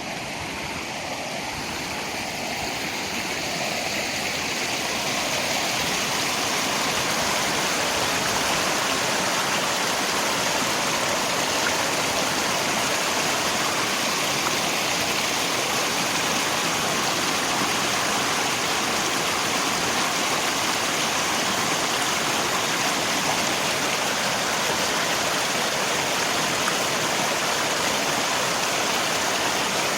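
Steady rushing of flowing river water mixed with rain, fading up over the first few seconds.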